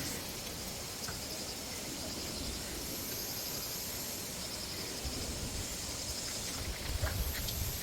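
Insects trilling in a steady, fast-pulsing chorus, with a higher, thinner buzz joining twice, about three seconds in and again near the end. A low rumble rises under it for the last few seconds.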